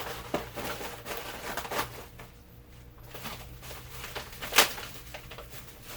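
Packaging being opened by hand: rustling and scattered clicks and taps, the sharpest about four and a half seconds in.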